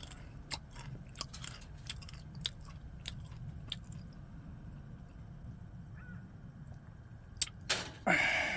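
Close-up chewing of mixed nuts (walnuts, almonds, big corn kernels, cashews), with sharp crunches thick in the first few seconds and then fewer. A louder breathy sound comes near the end.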